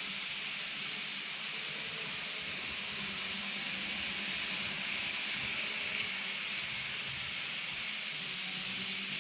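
N scale model trains running around the track: a steady hiss of wheels rolling on the rails with a faint, even low motor hum.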